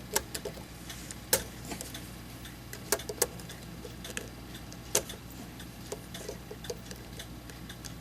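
Small, irregular clicks and taps of metal parts and tools being handled on a mechanical clock movement under repair.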